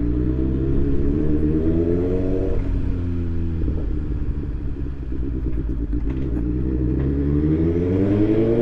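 BMW S1000XR's inline-four engine through a full Akrapovic titanium exhaust, rising in pitch as the bike accelerates. About two and a half seconds in the throttle eases off and the engine runs low and uneven, then it pulls up again in a rising note near the end.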